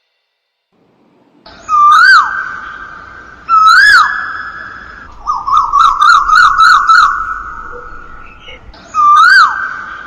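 Loud whistle-like calls that rise, then fall. Each starts suddenly and trails off, repeating about every two seconds, with a quick warbling run of shorter notes in the middle.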